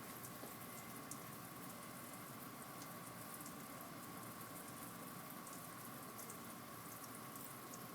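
Water spraying from a shower nozzle onto a taut sheet of fabric: a faint, steady hiss of falling water with small drop ticks.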